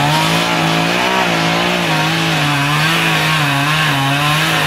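Chainsaw running under load, cutting wood, its engine pitch dipping and recovering every second or so as it bites into the cut.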